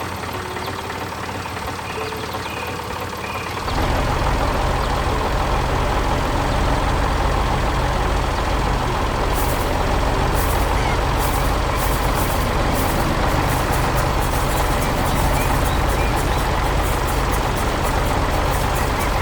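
Heavy vehicle engine running steadily, growing louder about four seconds in and then holding.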